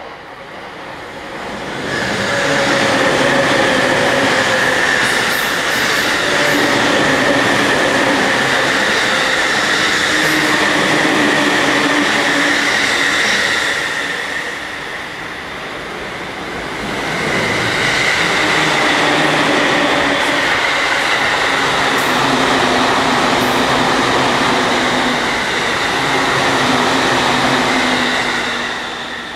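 Two Ueno-Tokyo Line electric commuter trains pass one after the other, each a long, loud rush of wheel and rail noise with a steady high whine through it. The noise eases briefly about halfway before the second train goes by, and it fades near the end.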